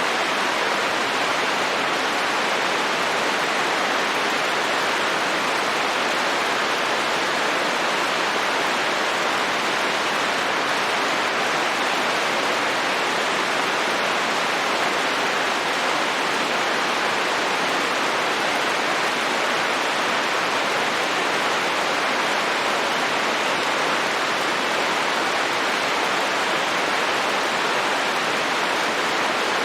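Steady, even rain with no distinct drops or thunder.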